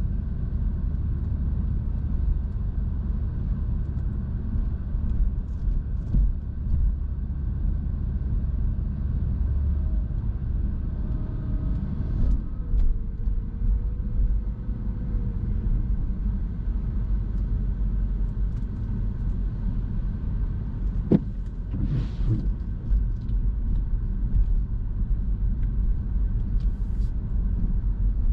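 Car driving: a steady low road and engine rumble, with a faint wavering tone in the middle and a sharp click about two-thirds of the way through.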